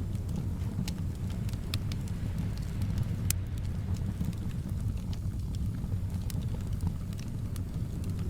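Wood fire in a fireplace crackling, with scattered sharp pops (the loudest about three seconds in), over a steady low rumble of soft wind.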